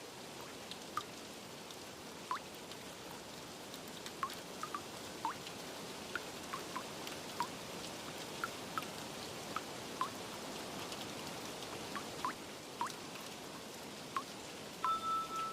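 Steady rain hiss with water drops plinking irregularly, about one or two a second. A chime-like musical tone comes in just before the end.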